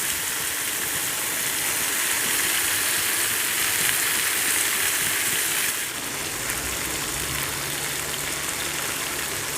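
Chicken pieces sizzling as they fry in butter in a non-stick pan, a steady hiss that eases slightly about six seconds in.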